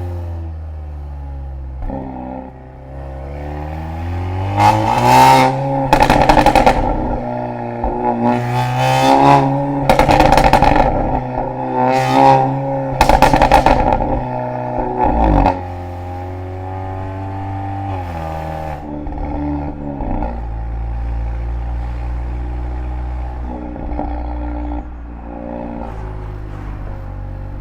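Volkswagen Golf R's turbocharged four-cylinder exhaust through an Akrapovic back box on a Stage 1 tune: idling, then revved hard about six times in quick succession with a harsh rasp at each peak, then dropping back to a steady deep idle.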